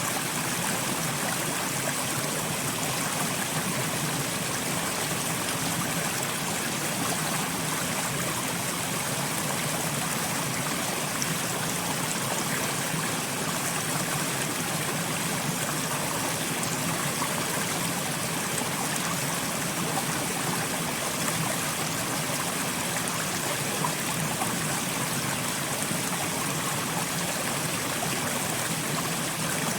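Steady, even water noise, billed as soft rain, with no separate drops, thunder or other sounds standing out.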